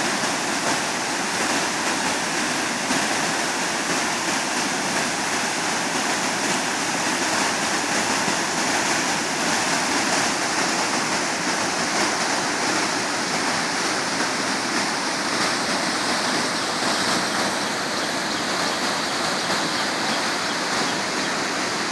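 Rushing water from a waterfall, a steady loud roar of falling and churning water.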